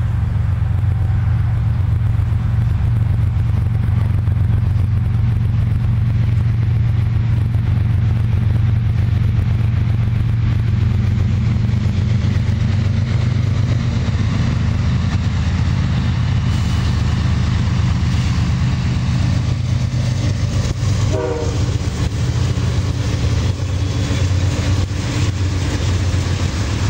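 Diesel freight train running with a steady, loud low rumble. From about the middle, clicks of wheels over the rails grow more frequent, with one brief higher-pitched sound about three-quarters of the way through.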